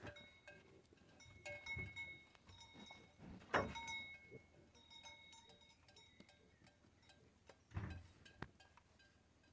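Livestock bells, as worn by goats or sheep, ringing faintly now and then, with a few dull thuds in between.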